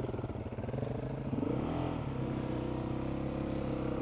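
Adventure motorcycle engine running on a rough dirt track, its note swelling and falling briefly about one and a half seconds in, then running steadily.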